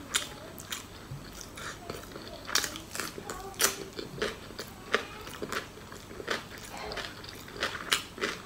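A mouthful of deep-fried pork larb being chewed with the mouth closed, with irregular crisp crunches every fraction of a second.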